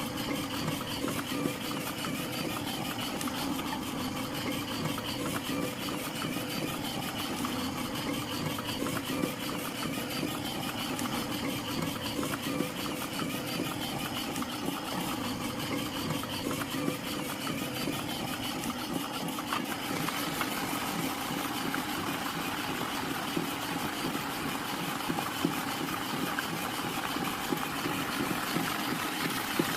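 A miniature water pump's small motor running steadily with an even hum. About two-thirds of the way through, a brighter hiss joins in.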